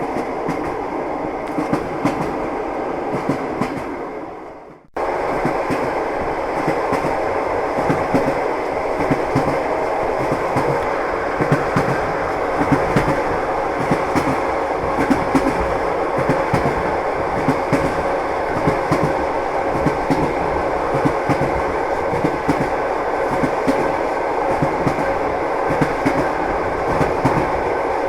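Train running on the rails: a steady rumble with the wheels clacking over rail joints. The sound fades out and cuts back in abruptly about five seconds in.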